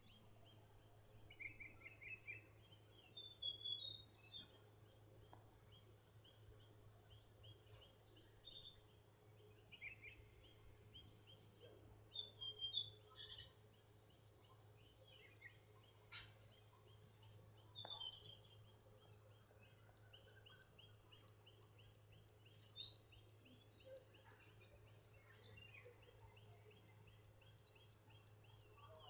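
Wild birds calling and chirping in short high phrases, the loudest about four seconds in and again around twelve seconds in, over a faint steady low hum.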